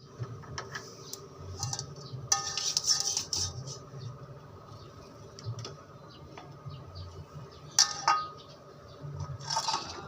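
Small pots, pans and spoons clinking and knocking together at an irregular pace, with a few sharper metallic clanks that ring briefly, the loudest a little over two seconds in and near eight seconds in.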